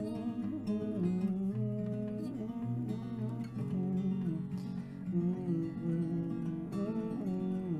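Acoustic guitar playing an instrumental break in a song, with no singing.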